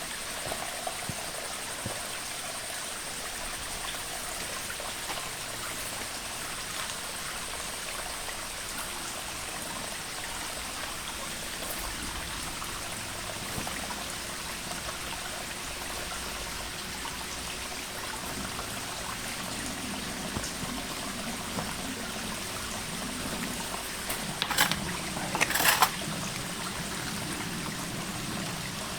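Stream water trickling steadily, with a short run of sharp knocks about 25 seconds in.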